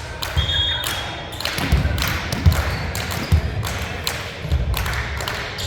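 Volleyball play on an indoor court: a string of irregular thumps and slaps from the ball being hit and players' feet landing on the floor, with a brief high squeak about half a second in.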